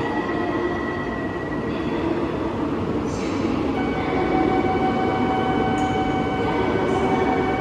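E2 series Shinkansen standing at the platform, its onboard equipment giving a steady hum and rumble. A steady high tone with overtones comes in about four seconds in and holds.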